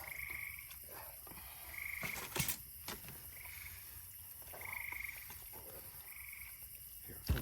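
A frog calling with short trills, about one every second and a half, with two sharp clicks of a spatula against the pan, the louder one near the end.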